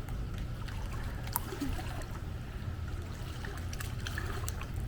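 Pool water sloshing and trickling, with scattered small splashes, as she kicks her legs in and out in the water. A steady low rumble runs underneath.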